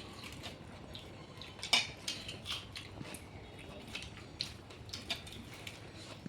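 Eating sounds from a person eating chicken curry and rice by hand: a scatter of short, wet chewing and mouth clicks, the loudest a little under two seconds in.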